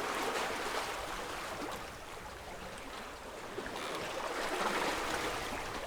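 Water rushing and hissing along a sailboat's hull as it moves, swelling twice as the boat rides the waves.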